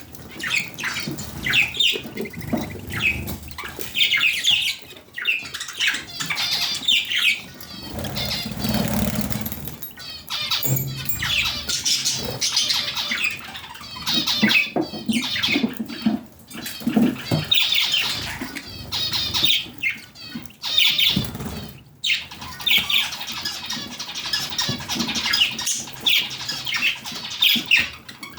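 Budgerigars chirping, warbling and squawking in a steady stream of calls, with a brief break about three quarters of the way through.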